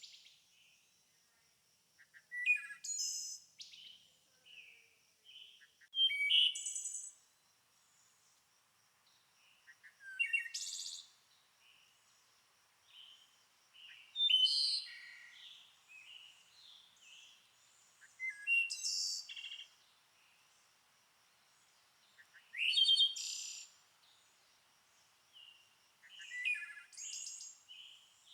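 A songbird singing a short, rapid, high phrase about every four seconds, seven times, with softer chirps between the phrases over a faint steady high-pitched tone.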